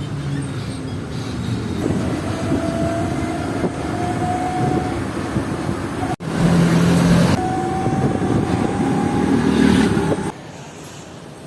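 Motor vehicle on the move in road traffic, its engine pitch rising slowly as it accelerates, twice. The sound cuts out briefly about six seconds in and drops much quieter near the end.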